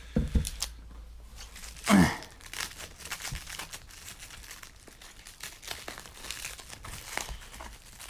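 Plastic packaging wrap being crinkled and torn open by hand in irregular rustling crackles, with one short, louder noise about two seconds in.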